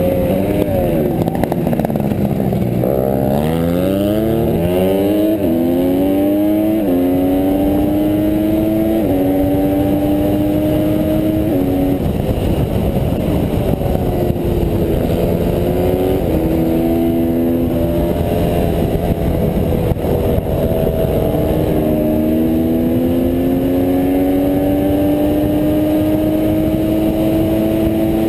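Honda CRF150R pit bike's four-stroke single-cylinder engine racing through the gears. It drops sharply in pitch about three seconds in, climbs in steps as it changes up several times, and later rises steadily again under acceleration.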